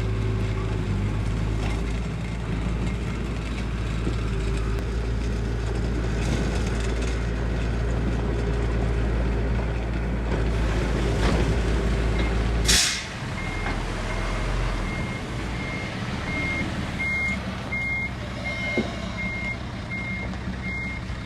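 A truck's diesel engine runs steadily, then an air-brake hiss comes about thirteen seconds in. After that a reversing alarm beeps over and over at an even pace while the vehicle backs up.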